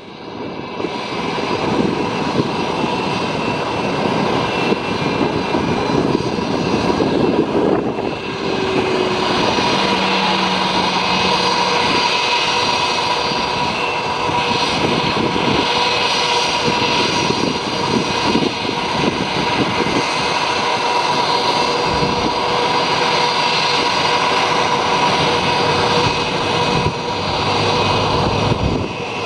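Jet aircraft engine running with a steady whine over a rushing noise, coming up to full level in the first couple of seconds.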